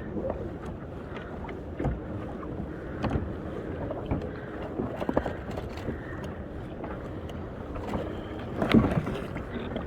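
Fishing kayak on open water: steady wind and water noise with knocks from the boat about once a second, likely the pedal drive being worked in short strokes. A louder knock comes near the end.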